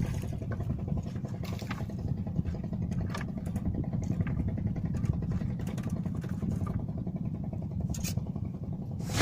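An engine running steadily with a low rumble, with a few brief sharp clicks and knocks.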